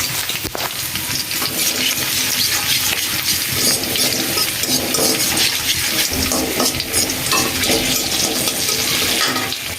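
Whole garlic cloves sizzling and crackling in hot oil in a karahi while being stirred.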